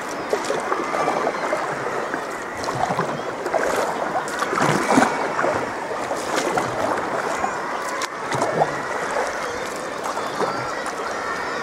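Sea water splashing and lapping against a sea kayak's hull, with irregular small splashes.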